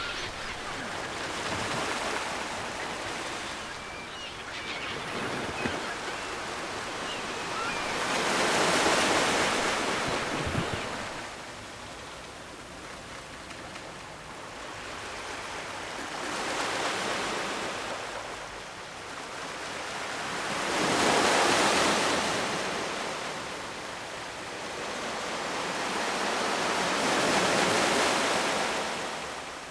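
Ocean surf: waves breaking and washing up the shore in a continuous rush. It swells and ebbs with each wave, several waves building and falling away over a few seconds apiece.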